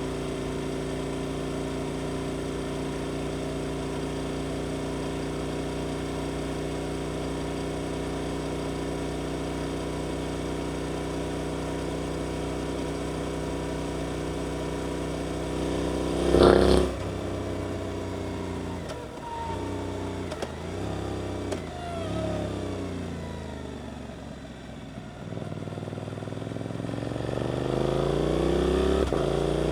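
Suzuki GSX-8S parallel-twin engine through an Arrow aftermarket exhaust, holding a steady note for about half the time, then a brief loud blast, revs falling and rising in steps as the bike slows, and near the end a long rising note as it accelerates.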